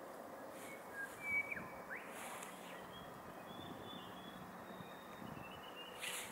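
Birds calling over a steady background hiss: a few short whistled chirps, some sliding in pitch, then thin high notes, with a brief hiss near the end.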